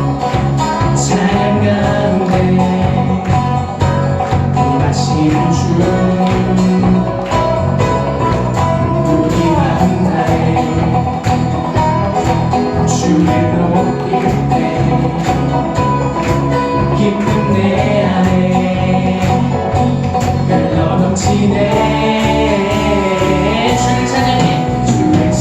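Praise band playing a worship song with a steady beat, guitars and bass to the fore.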